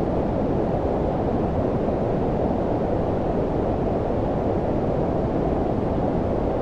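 Steady low-pitched noise with a deep rumble, filtered white noise of the brown-noise kind used for sleep, unchanging throughout with no events in it.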